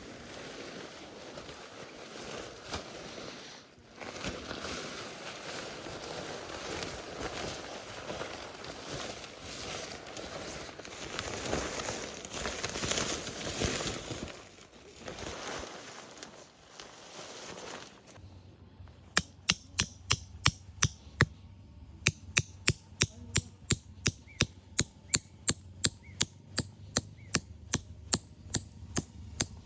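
Rapid sharp knocks, about three a second, from around two-thirds of the way in, after a stretch of uneven rustling noise; they pause briefly once and then keep going steadily.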